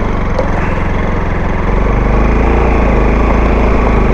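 Bajaj Pulsar AS200 motorcycle's single-cylinder engine running under way, getting louder a little under two seconds in as the bike pulls along, with tyre and wind noise over a gravel road.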